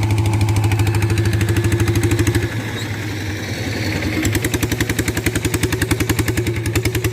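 Walking tractor engine running with a fast, steady exhaust beat. About two and a half seconds in it drops briefly, then picks up again with a stronger, more distinct beat.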